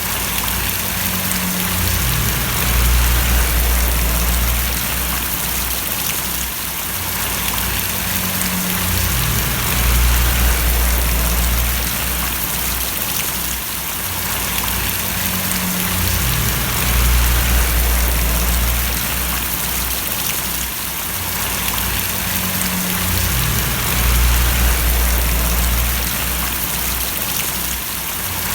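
Steady rain splashing, a dense even hiss of drops, with a low rumble underneath that swells and fades about every seven seconds.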